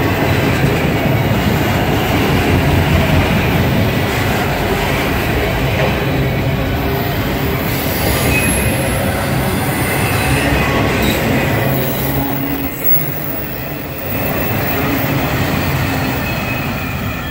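Freight train of autorack cars rolling past close by: a steady rumble and rattle of steel wheels on rail, with some high wheel squeal about halfway through.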